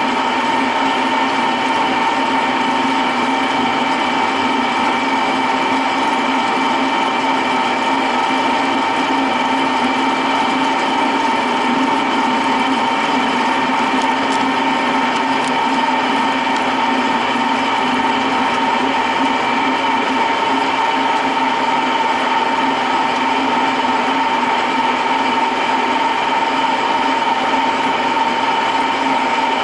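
Metalworking machine tool running steadily while machining a small stainless steel part down to length: a constant hum with a held whine above it.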